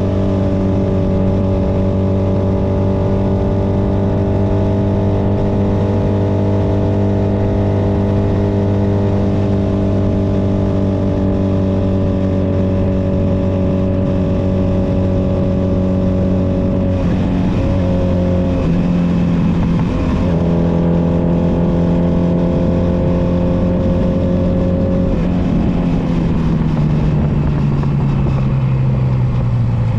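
Honda Nighthawk 250's air-cooled parallel-twin engine running at a steady cruise under wind noise on the microphone. About seventeen seconds in the engine note jumps about unsettled for a few seconds, then holds steady again, and from about twenty-five seconds in it falls gradually as the bike slows.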